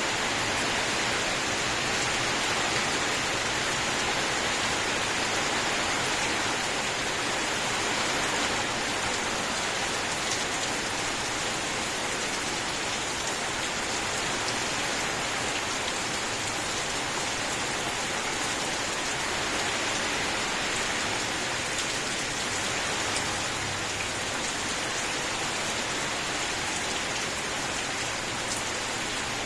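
Steady heavy rain falling, a continuous even hiss with faint scattered drop ticks.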